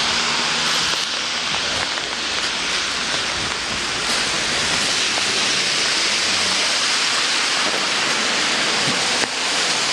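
Steady, heavy rain hiss, with the low running of a car engine underneath at times.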